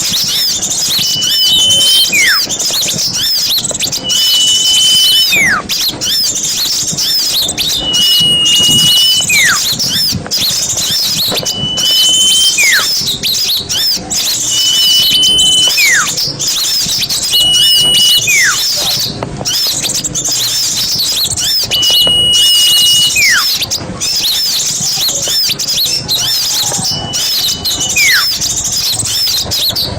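Recorded songs of small songbirds: dense, high, continuous twittering. Every three to four seconds a repeated call stands out, a short held whistle followed by a note sweeping steeply down in pitch.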